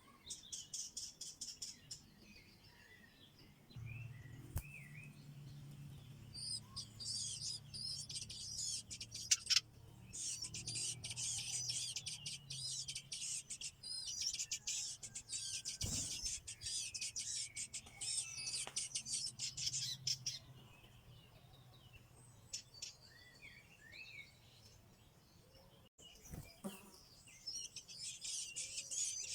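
Nestling birds chirping rapidly and high-pitched in long, dense bouts: begging calls from chicks in the nest asking to be fed.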